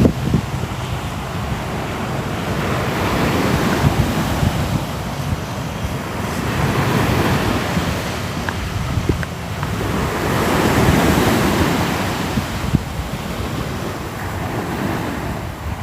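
Ocean surf: waves washing in continuously, the rush of water swelling and fading every four seconds or so.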